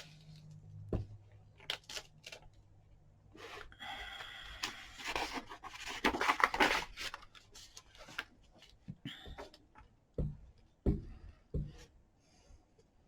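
Paper being handled at a craft table: a few sharp clicks, then a few seconds of scraping and rubbing on paper, and near the end several low knocks of tools set down on the tabletop.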